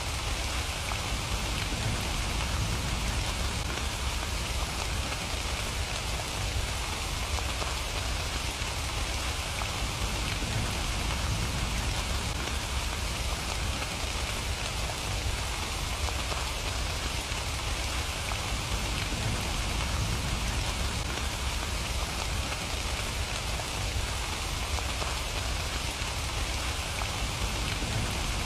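Steady rain falling, an even hiss of drops with a low rumble underneath that holds without change.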